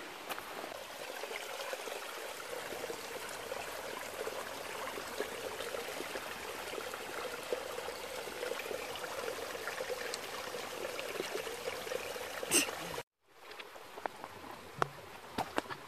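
Steady rushing of a small stream flowing. It cuts off abruptly near the end, leaving a quieter background with a few scattered clicks.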